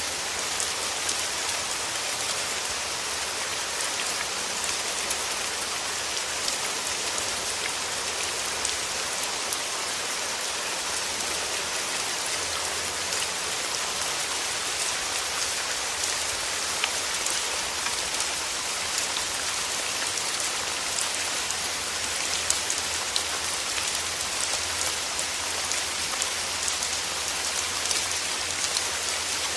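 Steady rain falling: a dense, even hiss with many small individual drops ticking through it.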